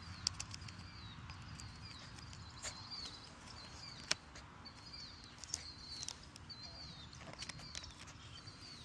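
A small bird repeating a short, high chirp with a downward hook, about once a second, over a low steady rumble of outdoor background. A few sharp clicks sound now and then, the loudest about a quarter second in and just after four seconds.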